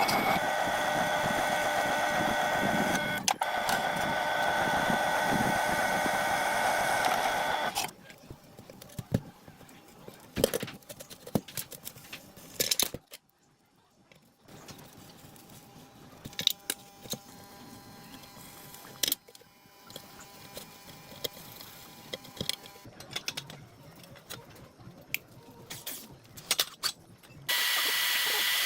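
A steady, loud machine noise with a hum in it runs and cuts off about eight seconds in, followed by scattered clicks and knocks of tools and metal parts being handled, then a loud steady hiss starts near the end.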